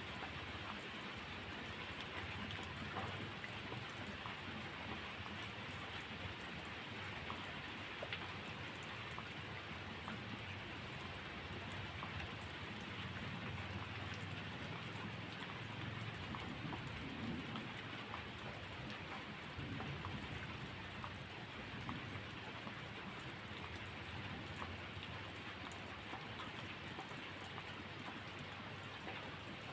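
Steady rainfall, with a low rumble of thunder swelling through the middle.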